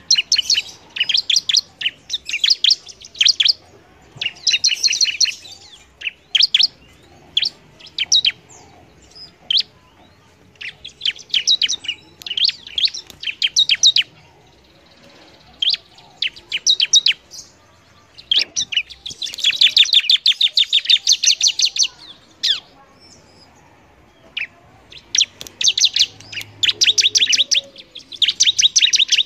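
Bar-winged prinia (ciblek) singing in full voice ('gacor'): rapid trains of sharp, high chirps in bursts of one to three seconds, with short pauses between.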